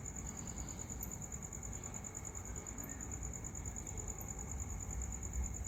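A cricket chirping in a steady, high, evenly pulsed trill, over a low background rumble.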